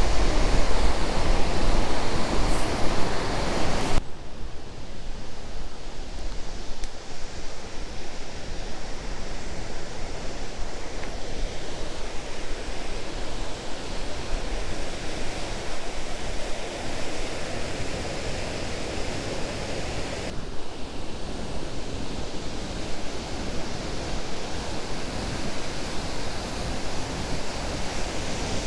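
Low Force waterfall on the River Tees: a steady rush of falling water. It drops abruptly in level about four seconds in and comes back stronger about twenty seconds in.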